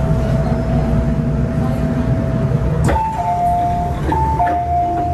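MTR M-Train running with a steady low rumble inside the carriage. About three seconds in, a click is followed by a four-note chime alternating between a higher and a lower pitch.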